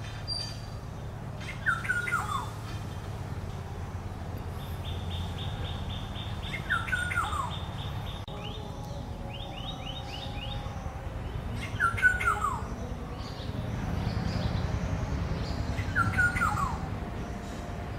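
Black-hooded oriole calling: four harsh, down-slurred calls, one every four to five seconds.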